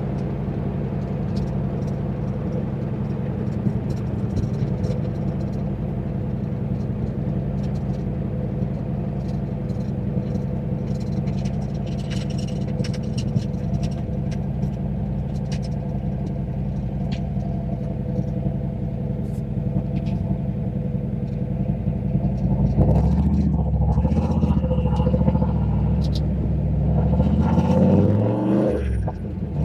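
Turbocharged 351 Windsor V8 of a Fox-body Mustang running steadily at low revs. About 23 seconds in it gets louder and the revs climb under acceleration, dipping briefly near the end and then climbing again.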